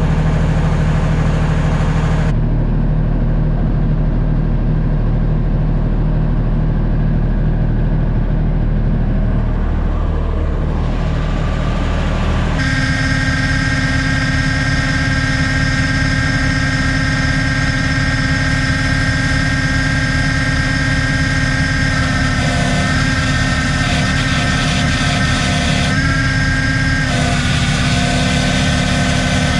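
An engine running steadily, with a sudden change in its sound about twelve seconds in.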